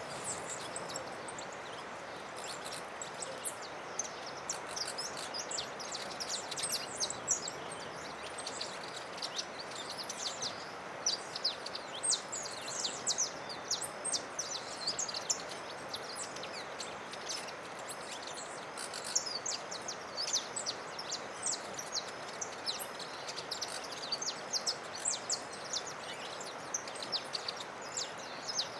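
Several birds chirping in quick, short, high calls, scattered through the whole stretch over a steady background hiss.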